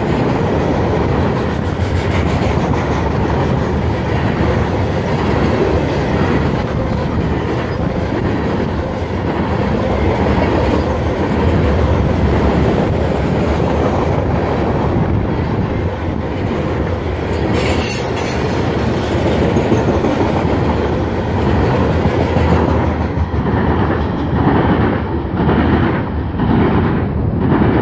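Loaded covered hopper cars of a phosphate freight train rolling past: a steady heavy rumble with the clickety-clack of wheels over rail joints. Near the end the clacks stand out more separately as the last cars go by.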